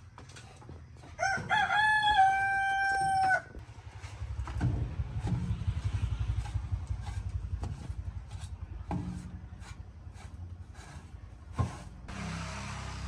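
A rooster crows once, about a second in: a rising start, then a long held note lasting about two seconds. A low, rapid pulsing starts about four seconds in and keeps going.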